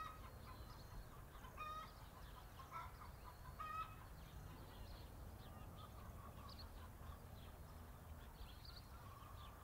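Faint bird calls over a quiet outdoor background: two short, slightly louder calls about one and a half and three and a half seconds in, with faint higher chirps scattered throughout.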